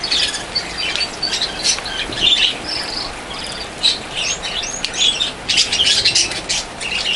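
Budgerigars chirping and chattering, many quick high calls overlapping, busiest about five to seven seconds in.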